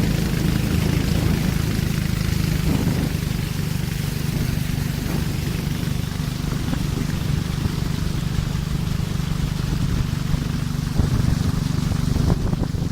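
A boat's engine running steadily, with a constant low hum under rushing wind and water noise.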